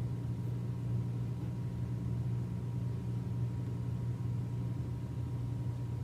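Steady low hum of room background noise, unchanging throughout, with no distinct handling sounds.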